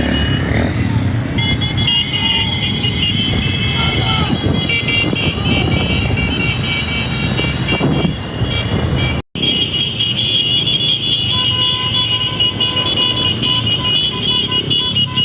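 Many motorcycle horns honking at once in long, overlapping blasts over running engines and crowd noise, with a brief break about nine seconds in before the honking carries on.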